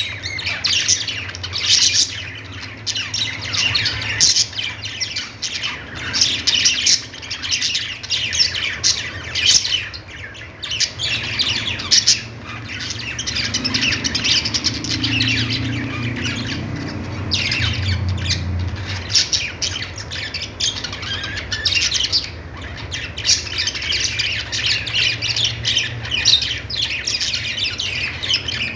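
A group of budgerigars (budgies) chattering and warbling: a steady, dense stream of rapid, high chirps and squawks overlapping one another.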